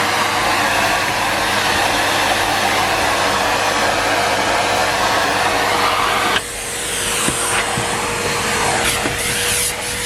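Numatic Henry Pet vacuum cleaner running with a steady rushing hum. About six seconds in, the sound abruptly drops and changes tone, followed by a few light knocks.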